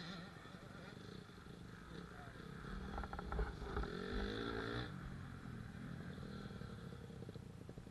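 Kawasaki KX65 two-stroke dirt bike engine running, revving up between about three and five seconds in and then dropping back.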